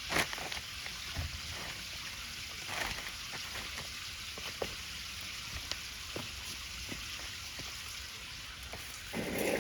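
Cooking over an open wood fire: a steady hiss with scattered small crackles and pops, and a brief louder rustle shortly before the end.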